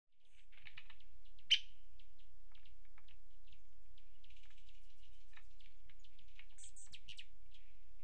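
Small birds chirping: a scatter of short chips throughout, with one sharp, loud call about a second and a half in and a few higher, squeakier notes near the end, over a low steady hum.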